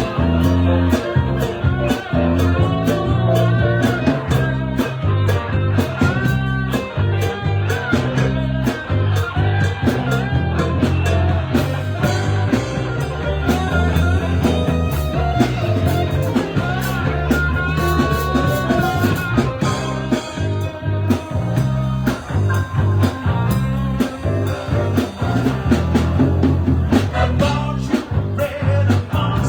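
Live blues-rock band playing an instrumental passage: a guitar lead with bending notes over bass and a steady beat.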